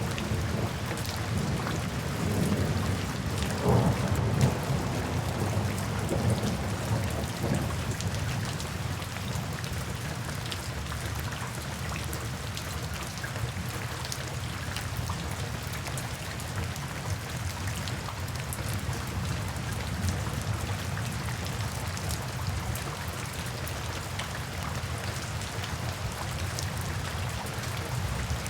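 Steady rain falling, with a low rumble of thunder that swells a couple of seconds in, peaks around the fourth second and dies away by about the eighth.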